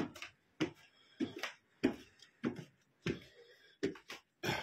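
Footsteps going along a staircase: a steady run of short thuds, about one step every half second or so.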